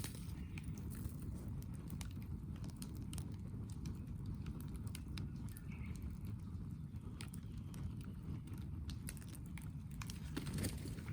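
Wood campfire crackling, with irregular sharp pops over a steady low rumble and a brief cluster of louder pops near the end.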